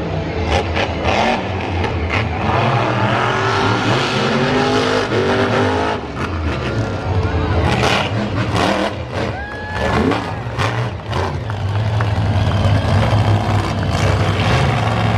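Monster truck engine revving hard, its pitch climbing again and again over a constant deep drone, with a few sharp bangs partway through.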